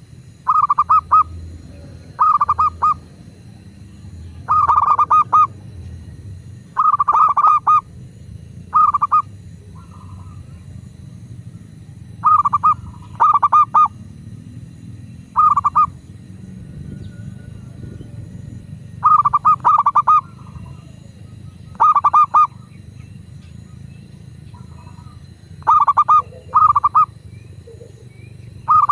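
Zebra dove (perkutut) cooing: about a dozen short bouts of rapid stuttering notes, irregularly spaced a second or few apart, over a faint steady low rumble.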